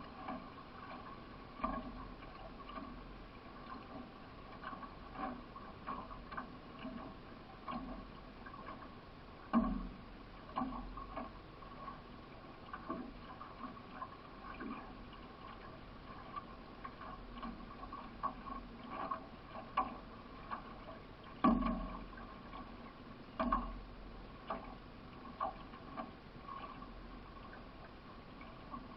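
Solo racing canoe being paddled: a run of short knocks and splashes from the paddle strokes, roughly one or two a second, a few of them louder, over a steady faint hum.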